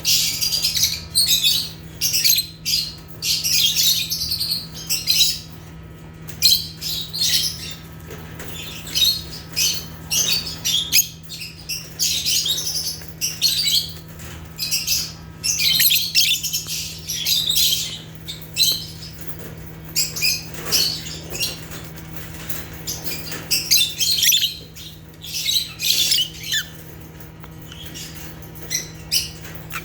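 Lovebirds (Agapornis) chirping in a continuous stream of short, shrill, overlapping calls, with a steady low hum underneath.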